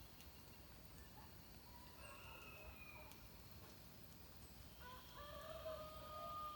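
A rooster crowing faintly, one long drawn-out crow starting about five seconds in, over faint dawn birdsong with a thin falling whistle about two seconds in.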